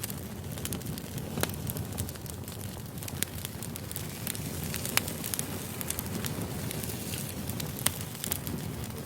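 Wood campfire burning: a steady low rush of flames with sharp crackles and pops scattered irregularly through it, the loudest pops about five seconds in and near the end.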